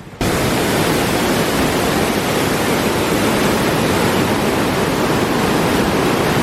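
Floodwater rushing through the fully opened shutters of a river regulator-cum-bridge in spate: a loud, steady rush of water that cuts in suddenly just after the start.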